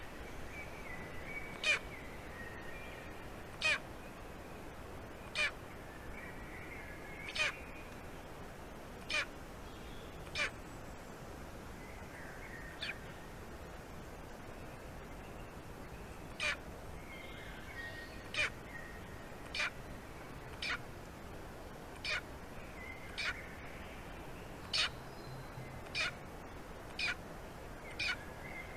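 A bird calling in short, sharp notes, one every second or two, with a pause of a few seconds midway, and fainter chirps between some of the notes.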